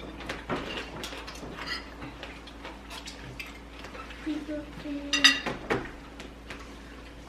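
Cutlery clicking and scraping against plates and dishes as people eat, with a sharp ringing clink about five seconds in and a short murmured voice just before it.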